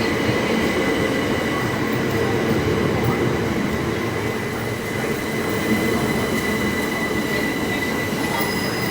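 Train running through the station: a steady rumble of wheels on rail, with a thin, steady high-pitched tone over it.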